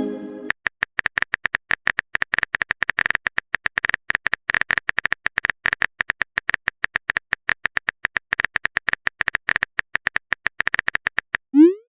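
Rapid, irregular tapping clicks of a phone-keyboard typing sound effect. Near the end comes a short rising pop and a brief chime, the text-message 'sent' sound.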